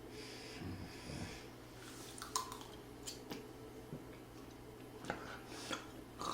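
A person chewing food, with a few short, sharp clicks scattered through.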